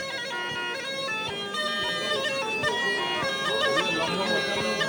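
Black Sea tulum (Laz bagpipe) playing a fast horon dance tune, its notes changing rapidly over a continuous reedy tone.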